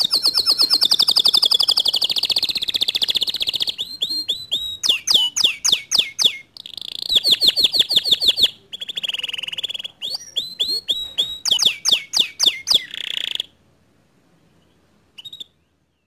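Domestic canary singing a long, loud song of rapid rolling trills and fast repeated chirping notes, which stops abruptly about thirteen seconds in; one faint short note follows shortly after.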